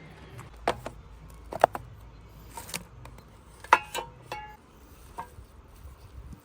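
Dishes and utensils clinking and knocking against each other: about six separate sharp knocks, a few of them ringing briefly, over a low steady hum.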